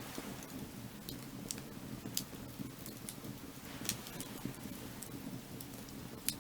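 Burning firewood: a low steady rumble of the fire with scattered sharp crackles and pops, the loudest about two seconds in, near four seconds and just before the end.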